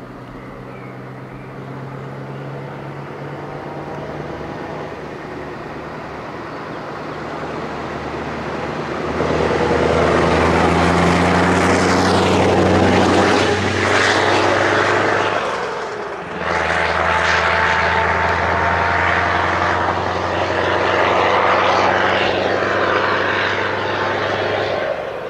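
Scania 164L 480 truck's V8 engine running through an open howler exhaust pipe. It grows louder as the truck comes on and pulls, breaks off briefly about fifteen seconds in, then runs loud again before easing near the end.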